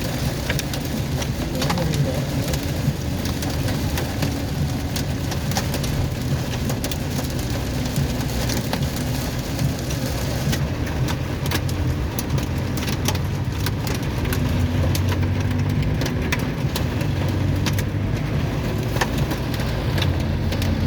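Hail and heavy rain pelting a car: a steady hiss with a constant scatter of sharp ticks from hailstones striking, over the low hum of the car's engine running. The highest hiss thins out about halfway through.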